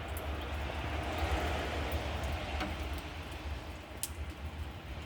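Outdoor ambience during heavy rain: a steady hiss that swells about a second in and eases off, over a constant low rumble.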